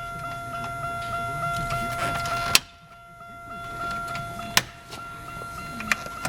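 Plastic clips on the instrument-cluster bezel of a 2000 Buick Century being pried loose by hand: a build of creaking and rustling ends in a sharp snap about two and a half seconds in, with two more snaps later on. A steady electronic warning tone from the car, with the ignition on, sounds underneath.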